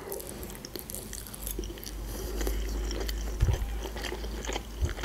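A woman chewing a mouthful of food close to the microphone, with many small mouth clicks and a couple of soft knocks.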